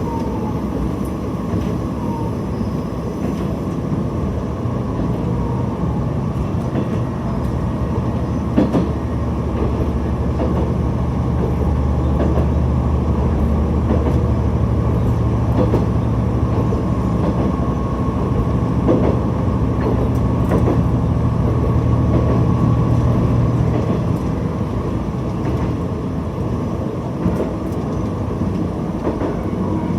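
Diesel railcar running along the line: a steady engine drone that grows heavier through the middle of the stretch, with occasional clicks of the wheels over rail joints.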